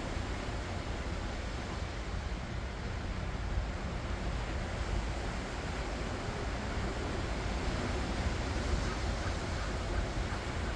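Ocean waves washing ashore in a steady rush of surf, with a low rumble of wind on the microphone.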